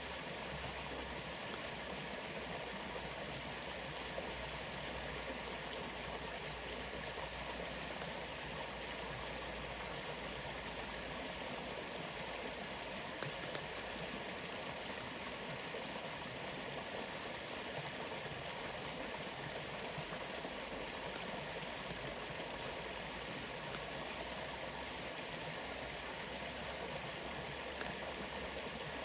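Steady rush of a waterfall, an even, unbroken wash of flowing water.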